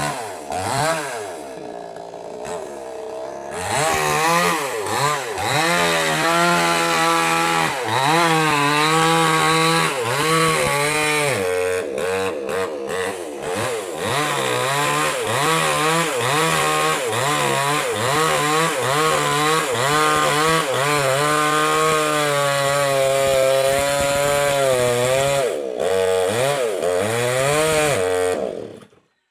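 Petrol mini chainsaw cutting wood, its engine pitch rising and falling over and over as the chain bites. It runs slower and quieter for a few seconds near the start, then stays at high revs, and cuts off abruptly at the very end.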